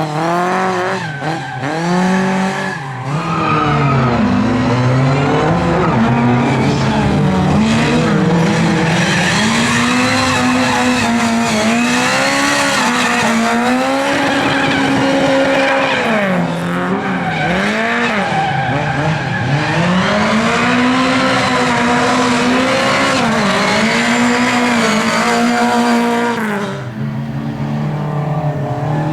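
Lada race car engine running hard on track, the revs climbing and dropping again and again. The sound fades somewhat near the end.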